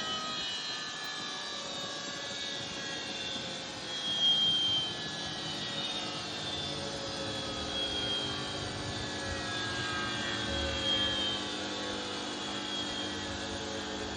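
Samsung WF80F5E0W2W front-loading washing machine's drive motor running with a whine whose pitch keeps sliding, louder about four seconds in and again near eleven seconds, over a low rumble: the sound of a motor that has failed.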